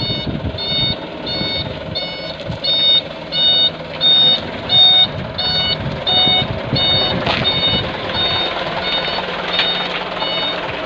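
Truck's reversing alarm beeping steadily, about two beeps a second, over a low vehicle rumble.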